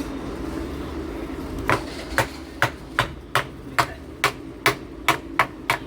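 Hammer tapping on the scooter's engine during dismantling: about eleven sharp, evenly spaced strikes, a little over two a second, starting about a second and a half in, over a steady low hum.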